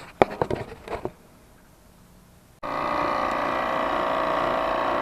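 A few sharp clicks and knocks of handling, then about two and a half seconds in a refrigerant recovery machine starts abruptly and runs steadily, a loud motor-and-compressor hum with several steady tones, pulling the refrigerant charge out of the heat pump.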